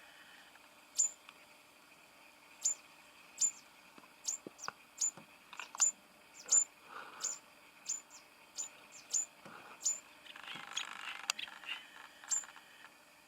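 Small bird giving a long run of short, thin, very high-pitched chips, one or two a second. A brief buzzy chatter comes in about three-quarters of the way through.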